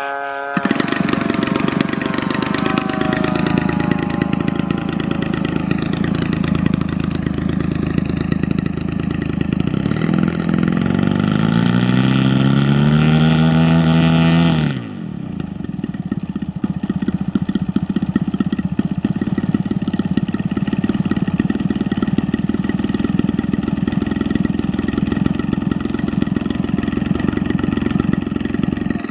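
Engine of a 40% scale Cessna Bird Dog RC model plane running, rising in pitch as it is throttled up about ten seconds in, then dropping off abruptly about fifteen seconds in and running steadily after.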